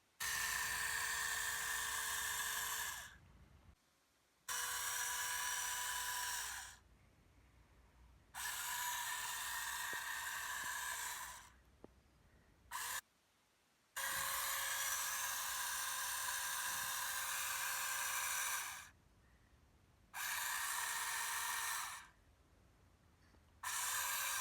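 Small electric motor and gearbox of an RC model tractor whining, switched on and off again and again in runs of a few seconds with short silent gaps.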